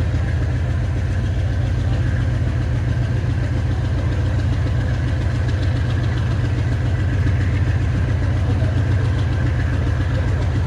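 AGE30 'Blue Tiger' diesel-electric locomotive engine running steadily: a low pulsing drone.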